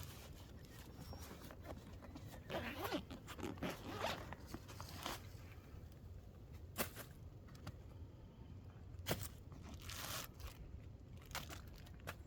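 Zipper being pulled on a bag, among irregular clicks, rustles and scrapes of gear being handled and unpacked.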